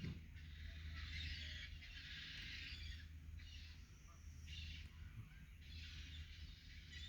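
Faint calls of a flock of gulls, rising and falling in patches over a steady low hum.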